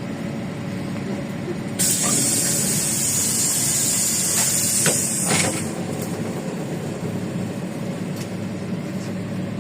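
Hiss of air from a LiAZ city bus's pneumatic system. It starts suddenly about two seconds in, lasts about four seconds and cuts off after a couple of short knocks. The bus's Yuchai diesel engine runs steadily underneath.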